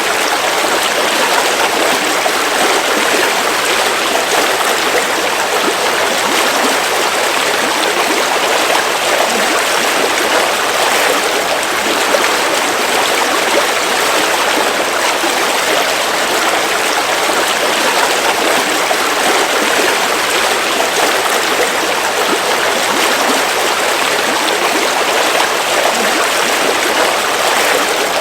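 River water flowing over rocks, a steady rushing babble with no breaks.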